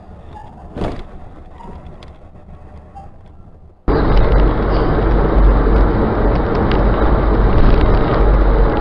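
Vehicle driving noise picked up by a dashcam: a faint rumble with one sharp knock about a second in, then an abrupt switch to a much louder, steady rumble of engine, road and wind noise.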